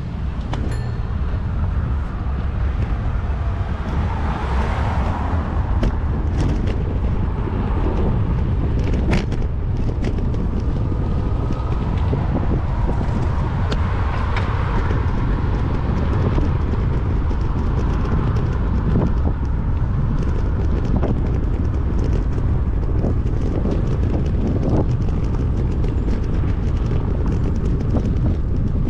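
Wind rumbling steadily on a bike-mounted GoPro's microphone while riding, with cars passing on the road, one swelling and fading about five seconds in and another near the middle. Scattered light clicks and rattles from the bike.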